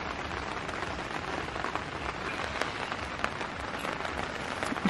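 Light rain falling: a steady, even hiss with scattered faint drop ticks.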